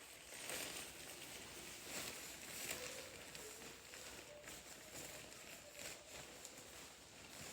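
Faint rustling and light scuffing of costume fabric as it is handled and pulled on, in small irregular bursts.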